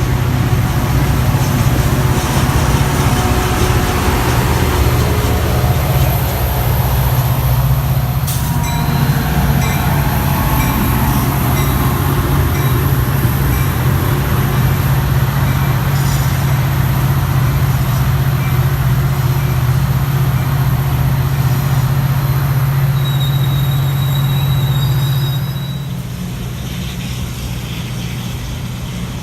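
Metra commuter train on the BNSF line running past, with a loud steady low drone from its diesel locomotive over the rumble of wheels on rail. A few thin, high wheel squeals come near the end, and the drone drops away about 25 seconds in.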